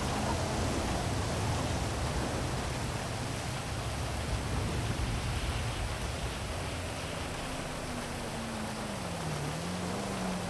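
Heavy rain falling as a steady, even hiss, with a low city traffic hum underneath. In the second half a low vehicle engine note slides down, rises briefly, and falls again.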